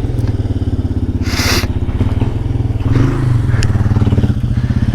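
Off-road motorcycle engine chugging at low revs, lugging under load on a rocky climb, with a short hiss or scrape about a second in.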